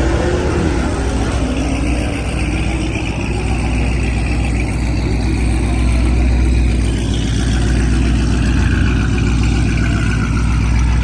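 Vehicle engine running loud with a heavy, steady low rumble.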